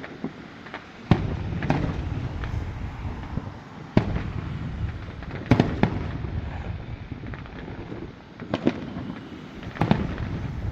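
Aerial fireworks going off at a distance: a string of sharp bangs a second or more apart, some in quick pairs, each trailing off in a low rolling echo.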